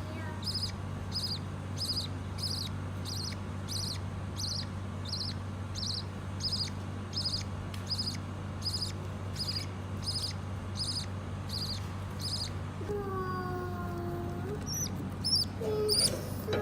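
A bird repeating one short, high chirp at an even pace, nearly two a second, over a low steady hum. Near the end a lower, drawn-out call comes in, along with a few more high chirps.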